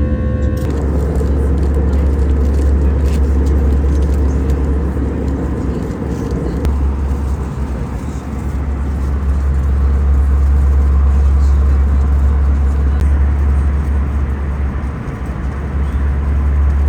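Steady low drone and rushing air noise inside an airliner cabin in flight.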